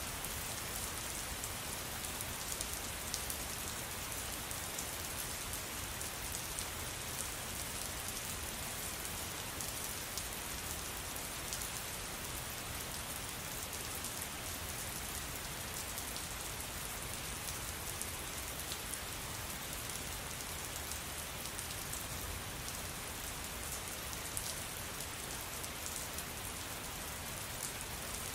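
Steady rain falling, a constant hiss with many small drop taps running through it.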